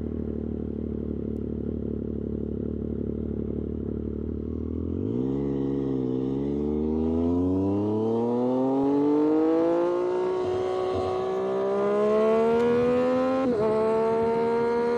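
Triumph Street Triple 765RS's inline three-cylinder engine through an SC-Project aftermarket exhaust, running steadily at low revs, then from about five seconds in accelerating with the pitch climbing in one long sweep, with a brief break near the end.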